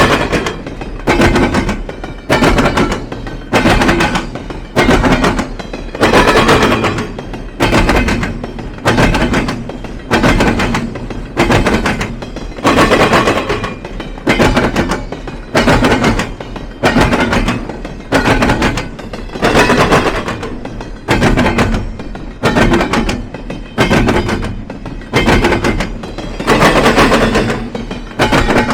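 Freight car wheels pounding over a railroad diamond crossing: a steady, loud clatter, about one heavy clack a second as each pair of car trucks crosses the frogs.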